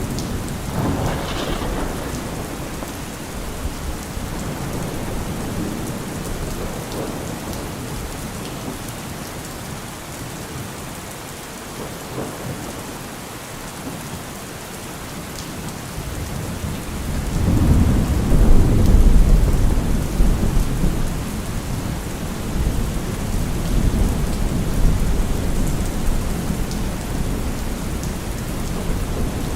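Heavy rain falling on a car roof, with thunder rumbling. A loud, deep roll of thunder starts just past halfway and lasts several seconds, and lighter rumbles come before and after it.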